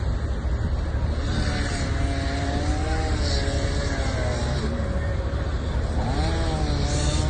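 Motor vehicle engine running with a steady low rumble, and a wavering pitched tone over it from about a second in.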